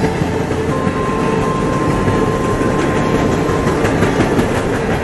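CSX freight train of open-top hopper cars rolling past close by: steady rumble of steel wheels on rail with a clickety-clack over the joints. A thin steady whine rises out of it from about a second in until nearly four seconds.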